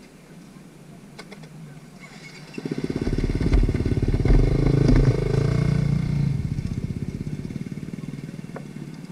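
Dirt bike engine running close by: it comes in suddenly about two and a half seconds in, is loudest for the next few seconds, then fades away as the bike goes by.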